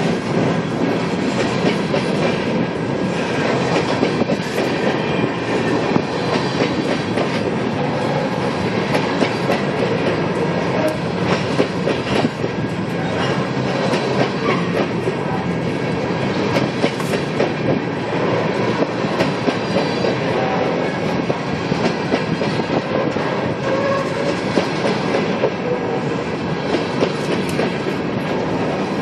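Loaded coal hoppers of a freight train rolling past, steel wheels clicking steadily over rail joints.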